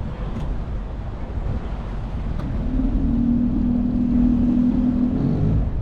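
Small boat's outboard motor running in reverse gear, a low rumble. About two and a half seconds in it rises to a louder, steady hum as it is throttled up, then it eases back just before the end.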